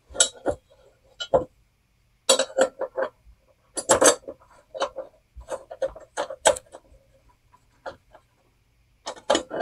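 Irregular sharp metallic clinks and rattles in small clusters: a lawnmower blade's crank bolt knocking against the steel blade and crankshaft as it is fitted by hand.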